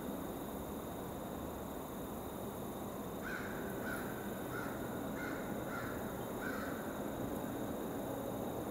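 A bird calling: a run of six short calls about half a second apart, starting a few seconds in, over a steady background hiss.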